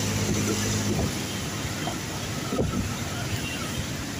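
Heavy rain and wet road noise from a moving vehicle, with a steady engine hum that drops away about a second in.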